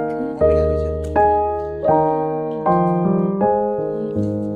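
Background piano music: a slow sequence of chords, a new one struck about every three-quarters of a second and left to ring down.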